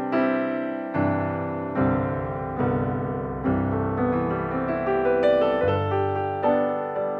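Background piano music: slow, gentle chords and notes struck about once a second, each ringing out and fading.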